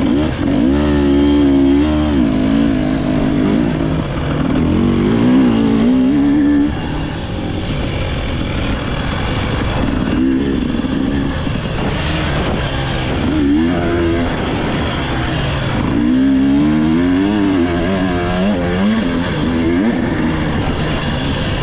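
Dirt bike engine running hard, its pitch rising and falling again and again as the throttle is opened and closed.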